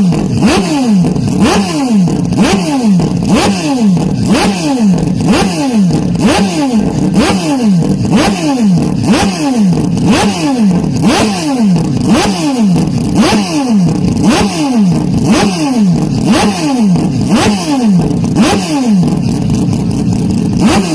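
Historic Formula 1 race car engine revving over and over, about one and a half times a second, each rev falling away in pitch before the next. It is very loud and distorted.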